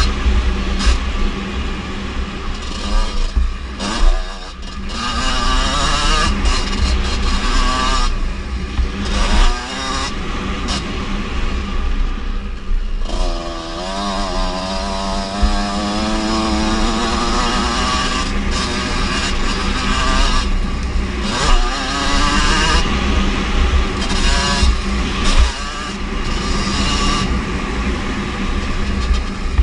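Kawasaki KX125 single-cylinder two-stroke motocross bike being ridden hard, its engine revving up and down again and again as the rider works the throttle and gears.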